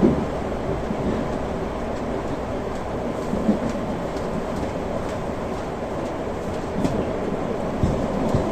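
Limited Express Shinano train running, heard from inside the carriage: a steady rumble of wheels and running gear, with a few low thuds at rail joints.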